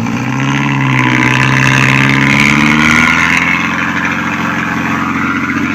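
Truck engine working hard under load in mud, revving up as it drives forward, holding high and then easing back a little past the middle.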